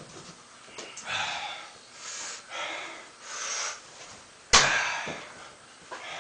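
Hard breathing, several loud breaths in a row. About four and a half seconds in comes one sharp, loud smack: a thrown baseball hitting the target.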